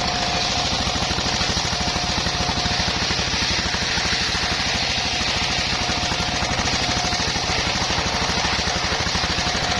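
Engine-driven circular sawmill running steadily: a fast, even engine beat under a strong high hiss, with a faint steady whine.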